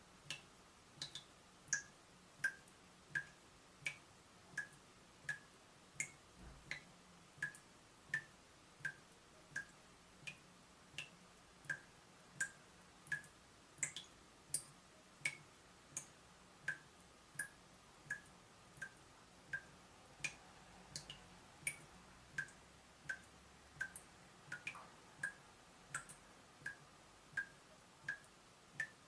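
Leaking tap dripping steadily: single drops land about every 0.7 s, each a short, sharp plink whose pitch varies from drop to drop.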